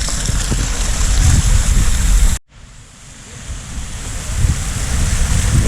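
Loud, steady rush of falling water from a waterfall, with wind buffeting the microphone in a rumbling flutter. The sound cuts out abruptly about two and a half seconds in, then builds back up over a second or so.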